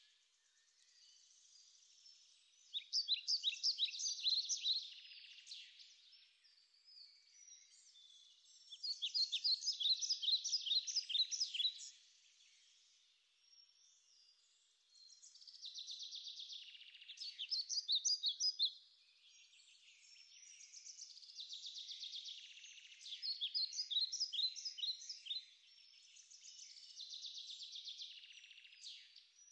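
A songbird singing phrases of quick, high notes, each lasting a few seconds, about five times with short pauses between.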